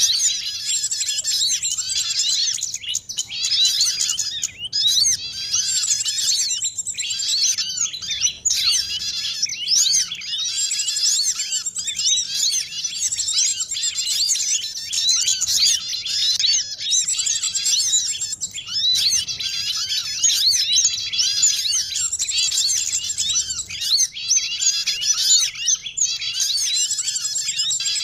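Bird-lure recording: a dense, unbroken chorus of many small songbirds chirping and twittering together in quick, high, overlapping calls, used to draw small birds in for trapping.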